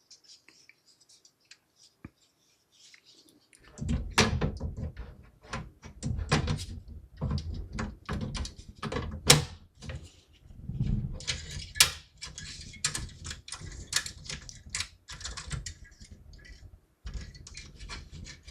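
Computer parts being handled and fitted together during a PC build: a busy, irregular run of clicks, knocks and clatter with low thumps. It starts a few seconds in, after a quiet start.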